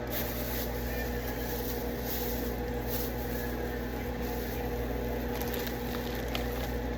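Steady low hum of a running appliance, made of several even tones, with a few faint light clicks and rustles of handling.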